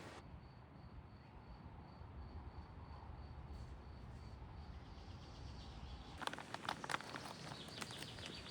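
An insect trilling: a steady, high, finely pulsed tone over a low rumble. About six seconds in, it gives way to a run of sharp clicks and crackles.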